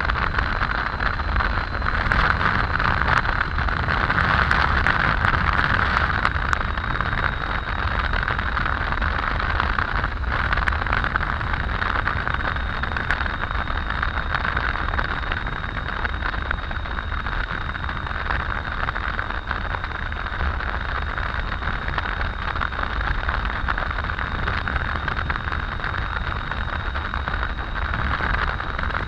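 Steady rush of wind and road noise from a Triumph Tiger 800 motorcycle riding at highway speed, with a thin, steady high tone over it.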